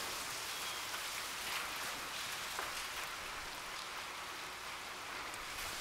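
Heavy rain falling steadily, with scattered individual drops ticking.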